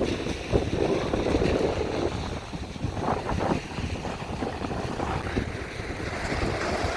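Strong, gusty wind buffeting the microphone: an uneven rumble that rises and falls with the gusts.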